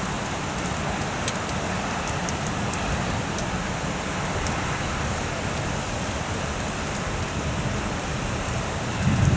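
Steady rain falling during a thunderstorm, with scattered faint drip ticks. A brief low rumble swells up near the end.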